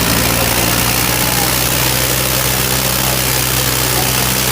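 Heavy tractor diesel engine running at a steady, even speed, a low drone with no revving.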